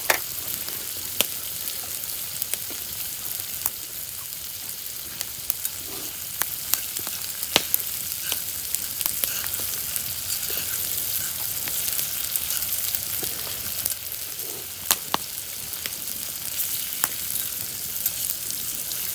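Food frying in hot oil in a pan: a steady sizzle with scattered sharp pops and crackles.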